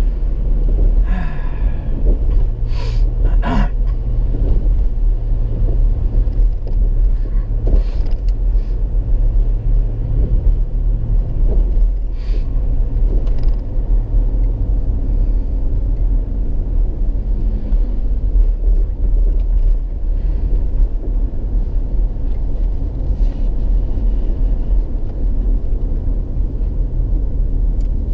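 Car on the move, heard from inside the cabin: a steady low engine and road rumble, with a few brief knocks in the first half.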